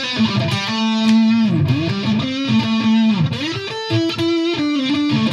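Electric guitar played through a Fender Mustang GTX100 modelling amp on a distorted preset with a noise gate: a lead phrase of held notes, several bent up and down in pitch.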